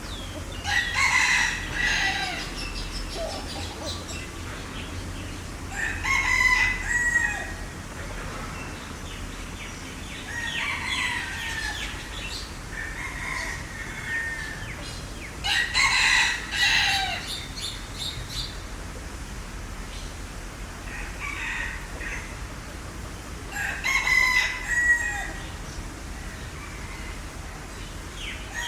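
Fowl calling loudly again and again, one call every few seconds, each a pitched call about a second long.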